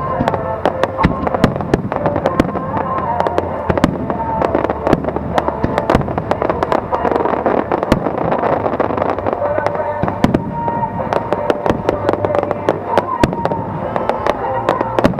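Aerial fireworks bursting in quick succession, a dense run of sharp bangs and crackles, over music.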